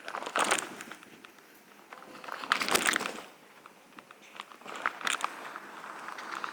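Footsteps crunching on dry ground, in three crackling bursts about two seconds apart.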